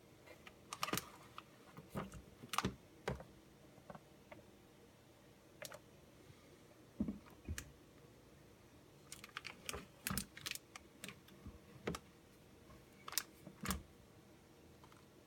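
Irregular light clicks and knocks, some in quick clusters, from small household items being handled and set down.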